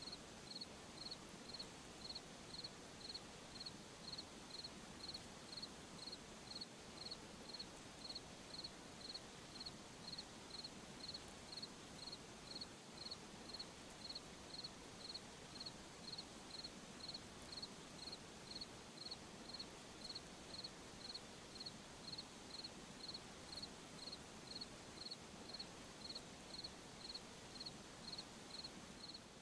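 A cricket chirping steadily at night, short high chirps at an even pace of about three every two seconds, over a soft background hiss.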